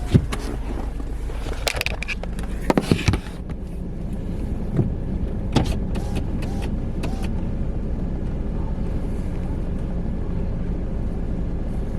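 Car engine idling, heard from inside the cabin, with a few short clicks and knocks in the first few seconds.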